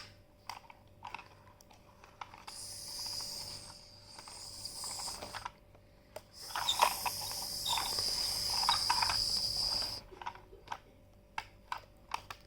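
Small battery-powered toy vacuum cleaner running twice, about three seconds each time, with a high whine over a hiss. Plastic clicks and knocks from handling the toy come between and after the runs.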